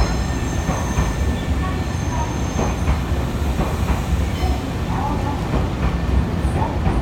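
Nankai electric train running along the platform: a steady low rumble of the train, with thin high-pitched wheel squeals near the start and again about two seconds in.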